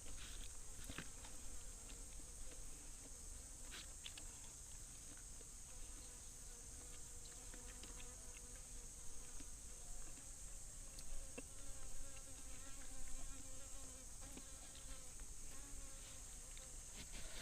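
Insects keep up a steady, high-pitched shrill drone. A lower wavering buzz comes and goes under it, with a few faint clicks.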